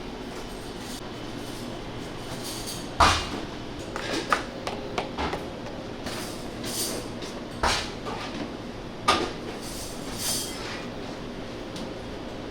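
Restaurant kitchen work: half a dozen sharp knocks and clatters of utensils or equipment over a steady background hum, the first a few seconds in the loudest.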